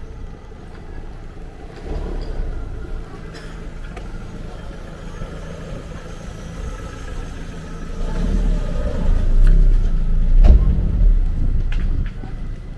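A car engine running close by: a steady low hum that grows louder about eight seconds in and drops away near the end, with a few light clicks over it.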